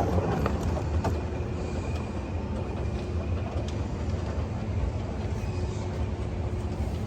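Steady low mechanical rumble of airport arrivals-hall background noise, with a few faint clicks and a thin high tone.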